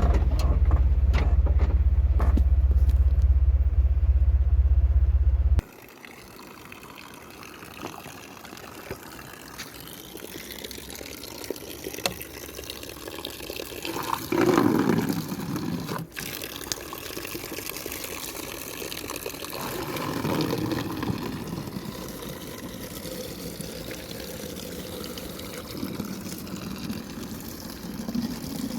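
Running water, a steady rushing that swells a little now and then. It follows a loud low rumble that cuts off abruptly about five seconds in.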